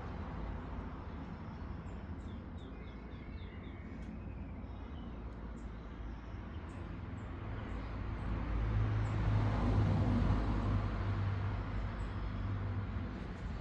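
Steady low rumble of a motor vehicle, which swells as it passes about eight to eleven seconds in, with a short run of faint high bird chirps about three seconds in.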